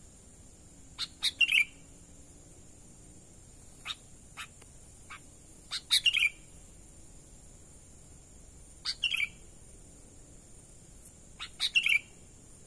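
Sooty-headed bulbul (kutilang) calling: short phrases of a few quick, bright notes that end in a lower slurred note, repeated four times about every three seconds, with a few single notes between. A faint steady high-pitched whine runs underneath.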